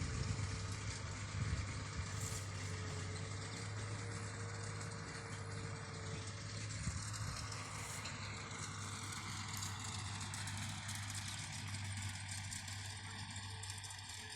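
Tractor engine running steadily at low revs, a constant low hum that slowly grows fainter toward the end.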